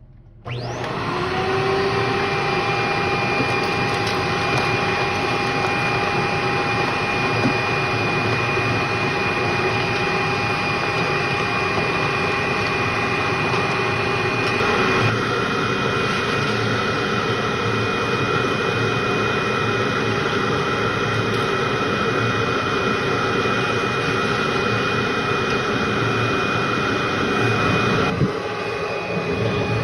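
Vacuum cleaner switched on about half a second in, its motor spinning up quickly and then running steadily with a high whine. The tone shifts about halfway through and again near the end.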